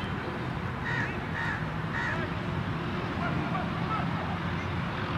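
Birds calling outdoors: three short calls about half a second apart starting about a second in, then fainter scattered calls, over a steady low background rumble.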